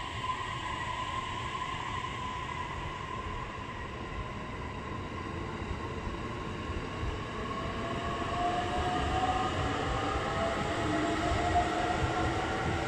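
Electric express train pulling out of a station. Its motors give a whine that climbs in pitch as it gathers speed, over the rumble of the wheels on the rails, and it grows louder in the second half.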